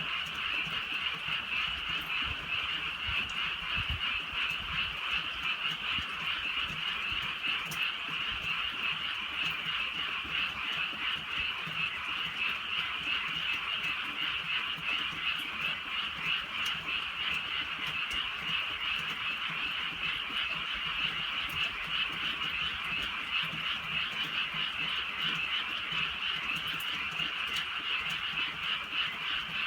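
Dense night chorus of many frogs croaking at once, a steady unbroken wall of overlapping calls.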